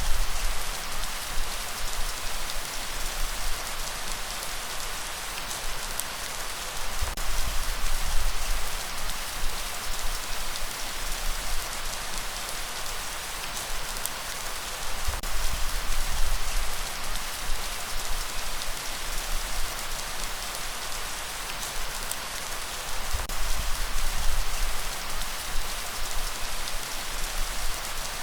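Steady rain, an even hiss with scattered drop ticks, over a deep low rumble that swells and fades about every eight seconds.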